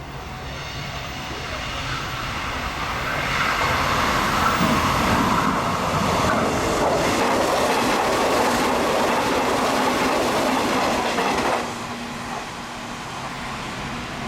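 A Hanshin Railway electric train passes through the station without stopping. Its wheel and rail noise builds over a couple of seconds and holds for about eight seconds, with the clickety-clack of the wheels over the rail joints. It cuts off suddenly near the end as the last car goes by.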